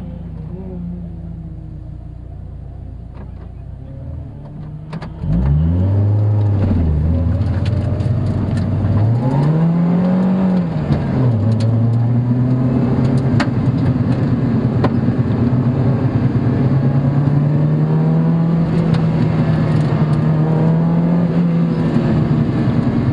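Car engine heard from inside the cabin, running low and steady at first. About five seconds in, the car pulls away hard: the engine climbs in pitch and drops back twice as it changes up through the gears. It then holds a strong drone that rises slowly under full acceleration, easing off near the end.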